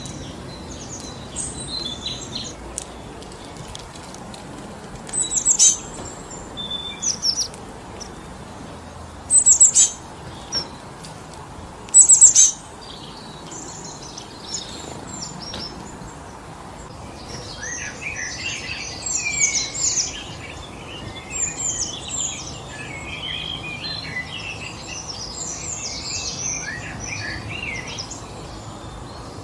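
Wind blowing steadily through a forest, with songbirds calling over it. Three loud, sharp calls come in the first half, then many small birds chirp and trill together over the last third.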